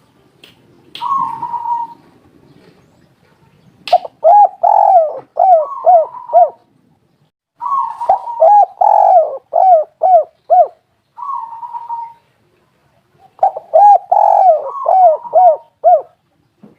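Spotted dove (tekukur) cooing. Three phrases of quick, repeated arched coos, each a couple of seconds long, with a shorter single call before and between them.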